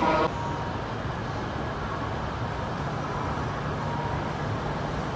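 E7/W7 series Shinkansen train arriving at the platform: a steady low rumble with hiss, and a faint high whine that comes in about a second and a half in.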